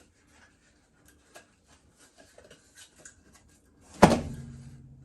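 Faint scattered light taps. About four seconds in, a sudden loud knock is followed by a low steady hum that fades away over a second or two.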